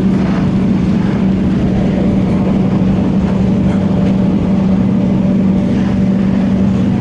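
Cabin noise of an MTR Tung Chung Line K-train running at speed: a loud, steady rumble with a constant low hum throughout.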